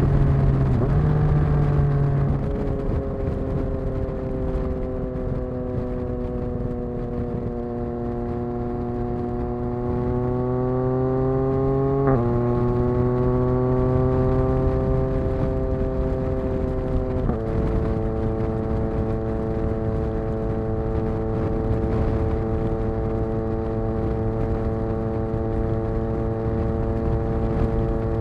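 Yamaha XSR900's inline-three engine through an exhaust with the dB killer removed, under way: the engine note eases off, then climbs. It drops sharply with an upshift about twelve seconds in and again a few seconds later, then holds a steady cruise, with wind rumble on the microphone.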